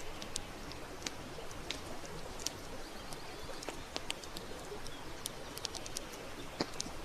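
Campfire crackling, with irregular sharp pops and snaps over a steady hiss.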